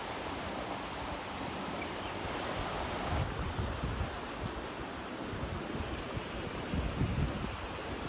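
Sea waves washing on a beach as a steady rush. Wind buffets the microphone in low gusts about three seconds in and again around seven seconds.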